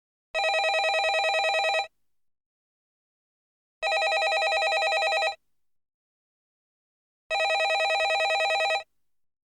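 Landline telephone ringing: three rings, each about a second and a half long with a fast trill, repeating every three and a half seconds with silence between them.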